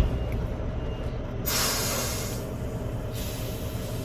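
Semi-truck air brake hissing sharply about one and a half seconds in, strong for about a second and then fading out over the next. Under it the steady low rumble of an idling diesel truck engine.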